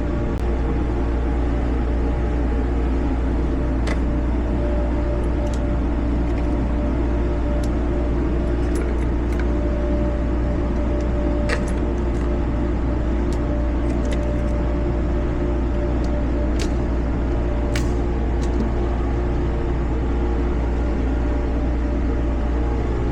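A steady low mechanical hum with a few faint, sharp metallic clicks scattered through it. There are no gunshots.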